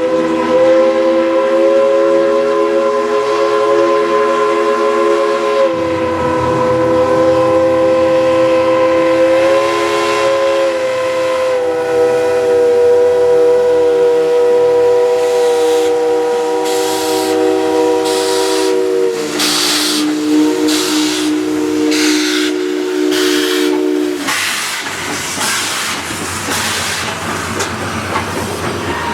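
Steam locomotive's chime whistle blown in one long blast that sags lower in pitch in steps and stops about 24 seconds in. From about 16 seconds in, the exhaust chuffs start, about one a second, then quicken as the engine gets under way.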